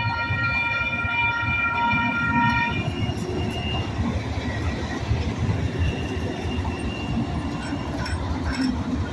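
SacRT light rail train: a steady pitched warning tone sounds and stops about three seconds in. The train then pulls away, rumbling over the rails with faint wheel squeal.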